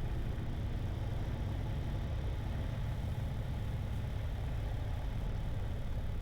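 Piper Arrow's single piston engine running at low power on the landing rollout, a steady low drone heard inside the cabin.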